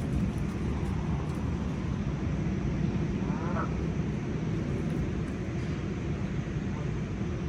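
Steady low rumbling outdoor noise, with a single short duck quack about three and a half seconds in.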